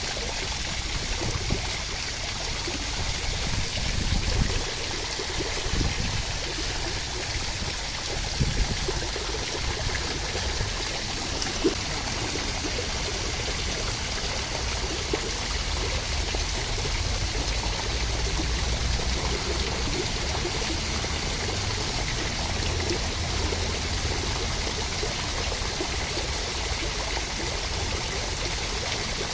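Steady rain falling as an even, full hiss, with a few short swells in the low end and occasional sharp ticks of single drops.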